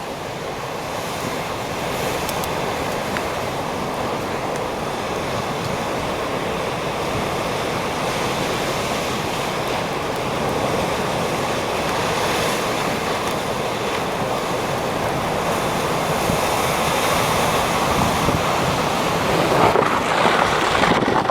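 Rough storm surf on the ocean, a continuous rush of breaking waves that builds slowly and swells near the end.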